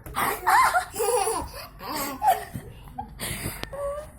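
Laughter: a run of breathy, broken laughs.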